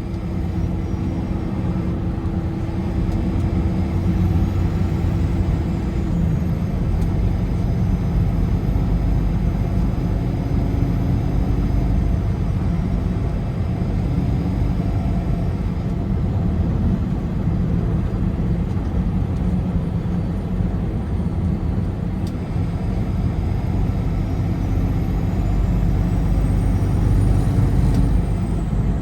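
Steady road and tyre noise of a car driving at highway speed, with a low drone from the engine and tyres and faint tones that come and go.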